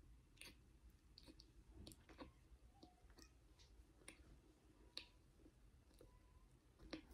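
Faint, irregular wet clicks of a mouth chewing cornstarch with the lips closed, the sticky powder-paste clicking against the tongue and palate.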